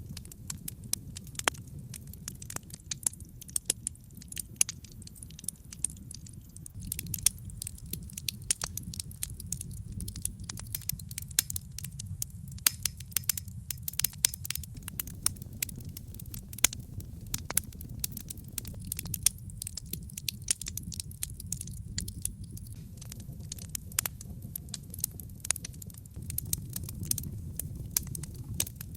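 Wood logs burning in a fireplace: a steady low rumble of flame with many sharp crackles and pops throughout.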